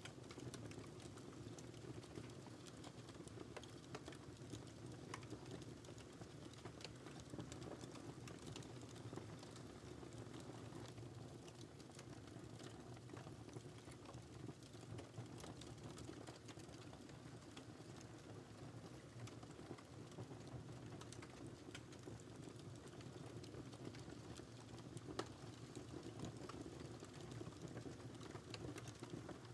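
Wood fire crackling: a soft, steady low rumble of flames with scattered small pops and snaps, one louder pop about 25 seconds in.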